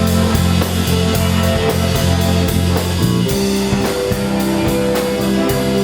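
Live rock band playing: electric guitar, bass and drum kit with a steady beat, the bass notes changing about three seconds in.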